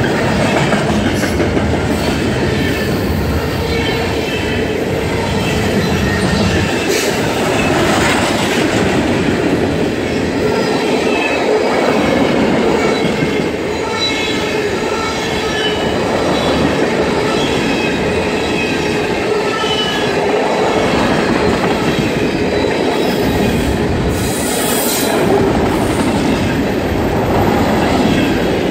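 Freight cars of a mixed manifest train, tank cars and then gondolas, rolling past at speed: a steady loud noise of steel wheels on rail with clattering over the joints and intermittent faint high wheel squeal.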